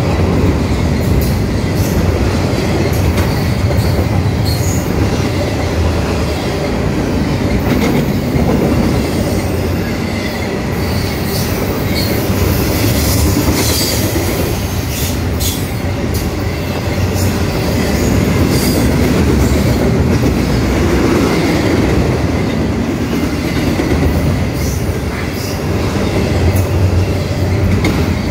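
Double-stack intermodal freight train's well cars rolling past close by: a steady loud rumble of steel wheels on rail, broken by irregular clicks and clanks from rail joints and couplings, with a faint high wheel squeal.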